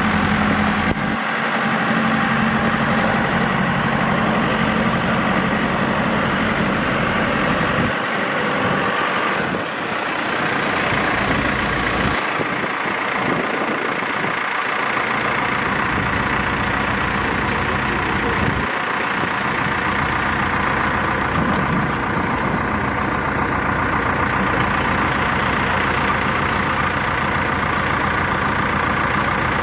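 Caterpillar 430E backhoe loader's diesel engine running steadily.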